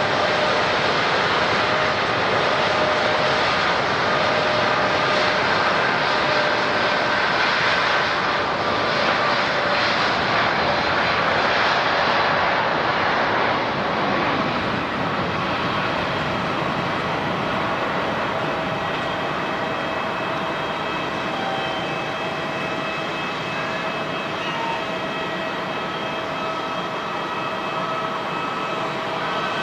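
Airliner's engines running loud and steady with a whining tone over a rush of noise, easing off gradually in the second half.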